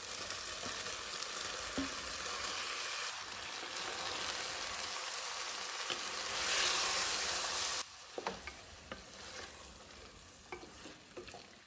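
Soya chunks and green peas sizzling in hot oil and onion-tomato masala in a stainless steel pressure cooker, stirred with a wooden spatula. The sizzle swells about six seconds in and drops off sharply at about eight seconds, leaving soft scraping and light taps of the spatula.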